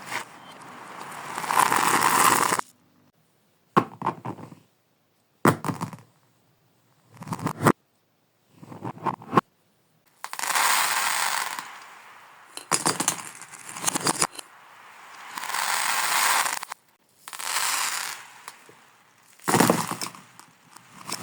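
Beads and small cubes clattering and rattling in a series of bursts with sharp single clicks between them, played backward, so several bursts swell up and then stop abruptly.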